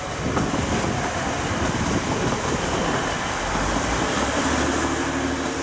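Three-coach Class 185 diesel multiple unit passing close by: a steady rumble of wheels on the rails mixed with its underfloor diesel engines running. A low steady engine hum comes through more plainly near the end as the rear coach goes past.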